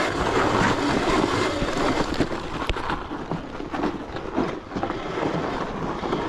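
Riding noise from a 72-volt electric Razor dirt bike on ice and slush: a steady rushing noise broken by many small crackles and knocks from the tyres and bike.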